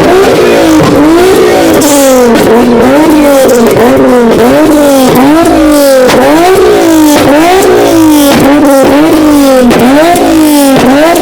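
A car engine revved hard over and over through a loud exhaust pipe, the pitch climbing and dropping back with each quick rev, about one rev every three-quarters of a second.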